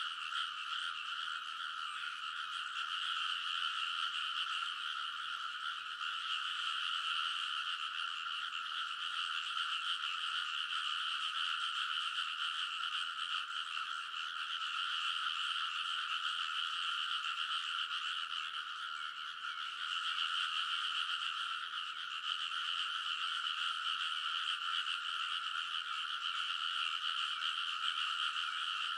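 A dense chorus of many frogs croaking together in a rice paddy, their calls overlapping into one continuous din. The chorus dips slightly about two-thirds of the way through.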